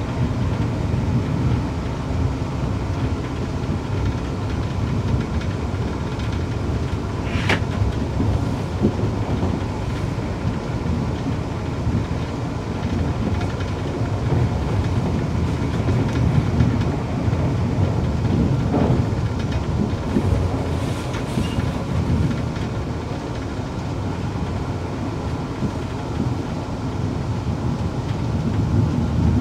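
Cabin running noise of a Class 360 electric multiple unit at speed: a steady low rumble of wheels on rail. A brief sharp noise cuts through about seven seconds in.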